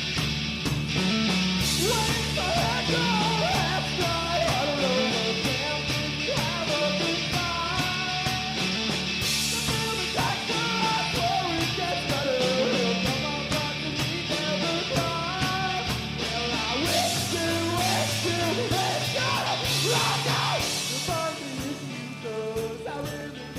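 Rock band playing a song with a lead vocal over electric guitars, bass and drums; the deepest bass drops out about seventeen seconds in.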